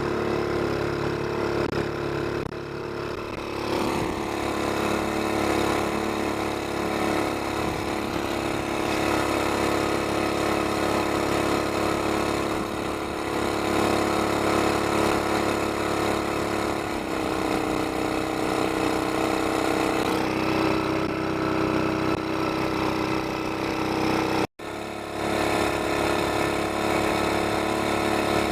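GX200-size single-cylinder mud motor engine running steadily through a short, muffled exhaust pipe that points the exhaust out parallel to the drive shaft. Its speed shifts a few times, about 4 and 17 seconds in. The sound cuts out for an instant near the end.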